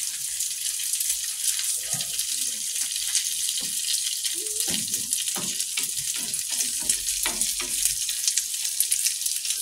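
Spinach-and-egg patty batter frying in hot oil: a steady sizzle with fine crackling pops.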